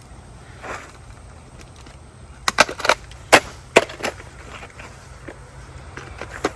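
A quick run of about half a dozen sharp knocks, coming about two and a half seconds in and over within a second and a half.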